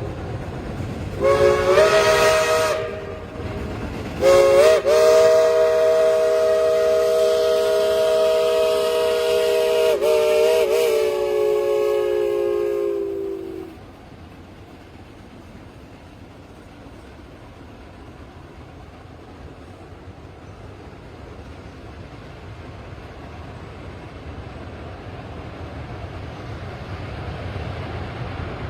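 Steam locomotive chime whistle sounding a short blast and then a long one, several notes together in a chord, the long blast wavering briefly near its end: the tail of the grade-crossing signal. After it cuts off, the train's quieter rolling rumble grows steadily louder.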